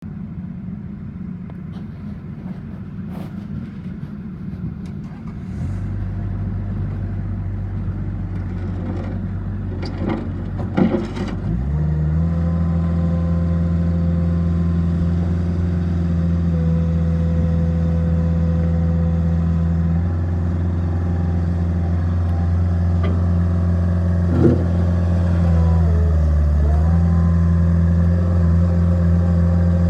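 Bobcat 763 skid steer loader's diesel engine running at low speed, then a few clicks about ten seconds in as it is throttled up to a steady higher speed. Near the end the engine note dips briefly and comes back up.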